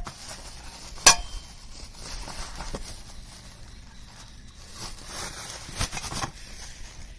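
Plastic packaging rustling and crinkling as the chainsaw mill's parts are unwrapped and handled. A sharp click comes about a second in, with a few lighter knocks near the end.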